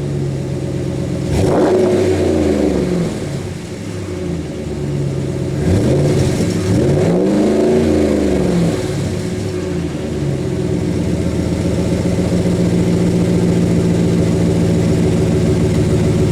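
2016 Ram 1500's 5.7 Hemi V8 on its factory muffler, heard from behind the truck, idling and blipped up and back down a few times, about a second and a half in and again around six to eight seconds. It then settles to a steady idle.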